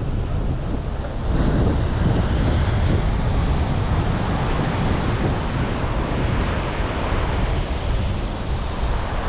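Wind buffeting the microphone: a loud, steady rushing and rumbling noise.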